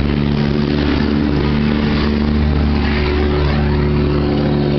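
Trane XL1200 Weathertron heat pump outdoor unit, a 4-ton model, running: a steady electrical hum from the compressor over the rushing of the condenser fan.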